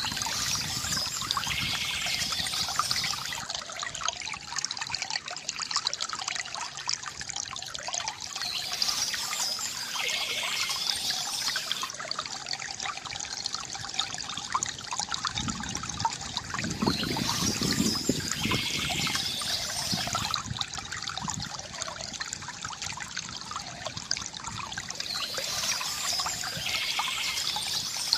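Water trickling and gurgling steadily from a bamboo fountain spout, with a fuller pouring surge about two-thirds of the way through. The pattern repeats roughly every eight seconds.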